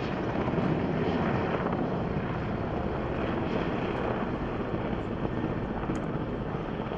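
Firefighting helicopter flying, with steady, loud rotor and engine noise.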